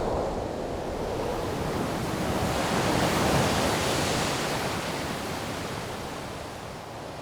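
Steady rushing noise of nature ambience, swelling to a peak around the middle and then fading away.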